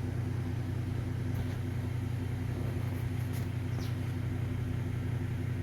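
Steady low mechanical hum with a constant pitch, with a few faint, short high-pitched sounds scattered through it.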